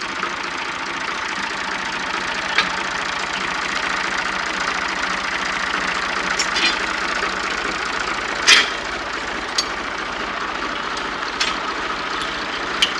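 Massey Ferguson 35 tractor engine running steadily, with a few short sharp clicks or knocks over it, the loudest about eight and a half seconds in.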